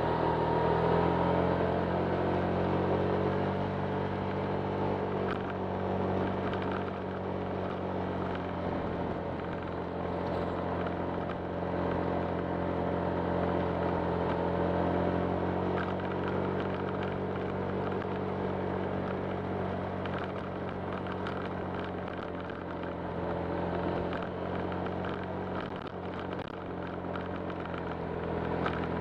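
Honda Click 125 scooter's single-cylinder engine running under way, its note holding fairly steady and rising and falling a little, over continuous road and wind noise.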